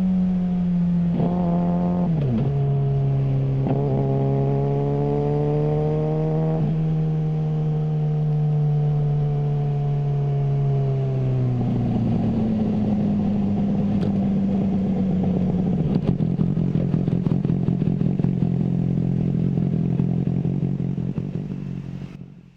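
Suzuki GSR600 inline-four engine through a GPR Ghost exhaust. Its note drops sharply about two seconds in, climbs slowly, then eases off. After about halfway it turns rougher with sharp pops, then fades out at the end.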